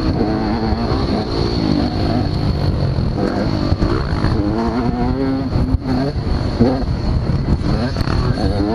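Motocross bikes' engines revving up and down as they ride the track, several at once, the pitch rising and falling every second or so over a steady low rumble.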